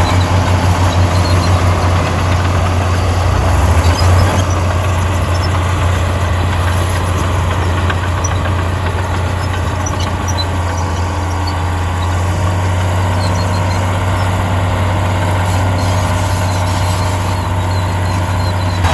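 Heavy earthmoving machine's diesel engine running, a loud steady drone with an even pulsing beat for the first few seconds that smooths out about four seconds in. Faint scattered squeaks and clicks sound over it.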